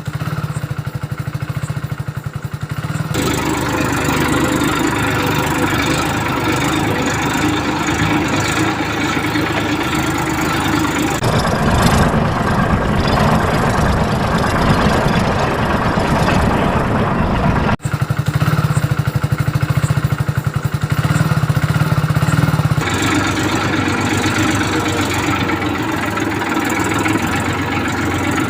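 Tractor engine running steadily near idle, a fast low chugging throughout. The sound changes abruptly several times, about 3, 11, 18 and 23 seconds in, as between separate recordings.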